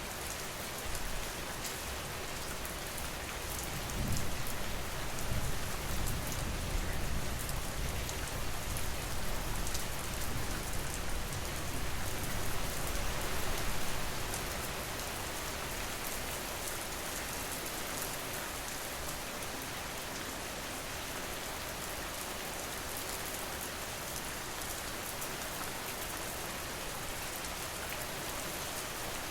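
Steady rain falling and pattering on surfaces, an even hiss with scattered drop ticks. A low rumble swells about four seconds in and fades a little before the middle.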